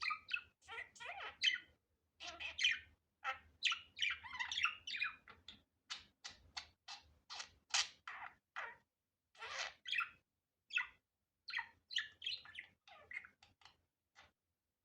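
Budgerigar chattering: a rapid, irregular run of short chirps and warbling notes that stops near the end.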